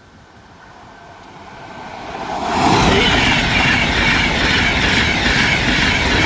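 Train passing: the rushing, rumbling noise builds over about two seconds, holds loud for a few seconds, then begins to fade at the end.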